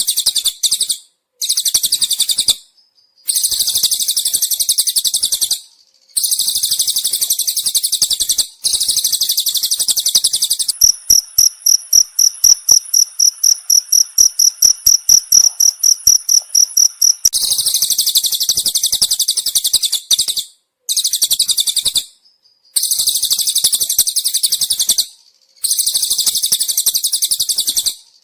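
Cililin bird song: rapid, dense, buzzy trilling phrases a couple of seconds long with short breaks between them. From about 11 s to 17 s a field cricket chirps instead, a pure high tone pulsing about five times a second.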